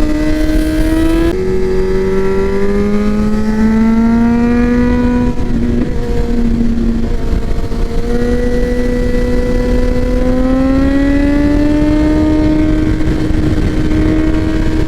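Motorcycle engine pulling along the road, its revs climbing slowly and dropping sharply at gear changes: one shift about a second in, easing off around the middle, then a long climb. Steady wind and road noise runs underneath.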